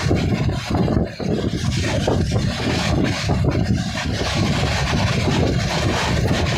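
Tapti Ganga Express passenger train running, heard from on board as a loud, steady rumble and rushing noise.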